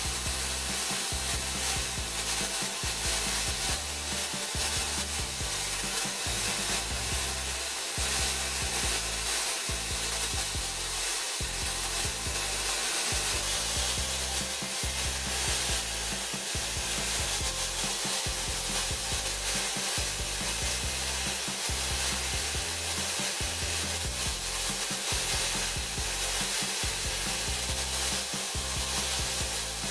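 A steel axe head is held against a yellow polishing disc spun by a corded electric drill, a steady rubbing over the drill's running motor.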